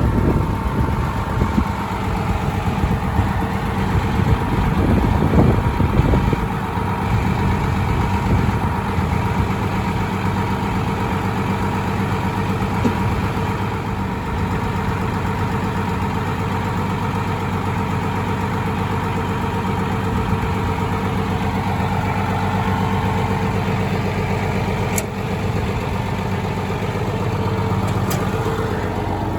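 1981 International 786 tractor's diesel engine idling steadily, with a brief louder, rougher swell about five seconds in.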